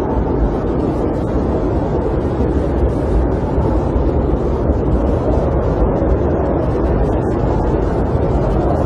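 Snowstorm wind heard from inside a camper: a loud, steady, deep rushing noise with no breaks or distinct gusts.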